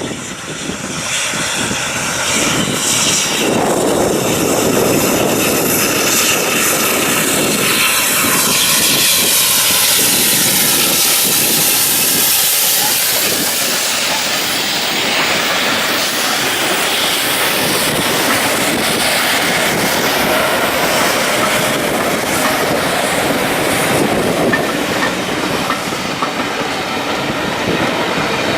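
A steam-hauled train running past, its wheels clattering over the rail joints as it goes.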